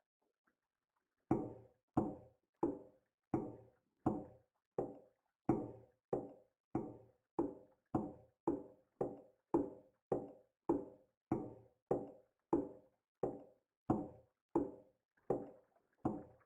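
A long run of evenly spaced knocks, about three every two seconds, each with a short ringing tail. They begin after about a second of quiet.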